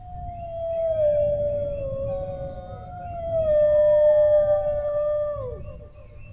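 Dogs howling: long drawn-out howls that sag slowly in pitch, a second howl joining about two and a half seconds in and overlapping the first, both sliding down and breaking off about a second before the end.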